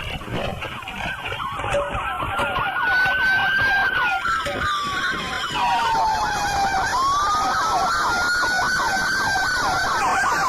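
Police car sirens: one in a slow wail that rises and falls twice, over another in a rapid, repeating yelp, with low road rumble beneath.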